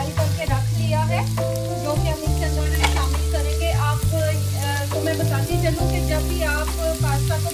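Chopped onions sizzling in a frying pan as they are stirred with a wooden spoon, under background music with a steady bass line and a melody.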